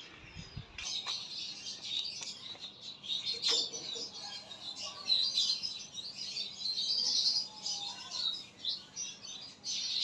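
Many small birds chirping without a break, their high calls overlapping.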